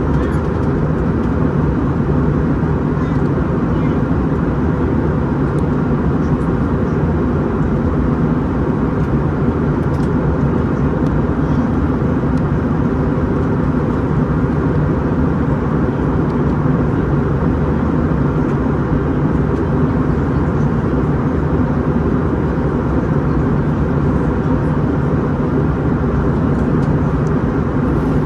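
Steady cabin noise inside an Airbus A321-211 in motion: the drone of its CFM56 jet engines and the rush of air past the fuselage, heard through the cabin as an even, deep noise.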